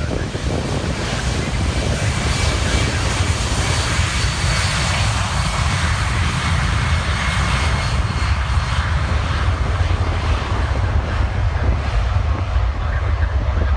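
Boeing 767 jet engines at takeoff thrust on a departing heavy jet: a steady, loud rumble with a faint high whine above it.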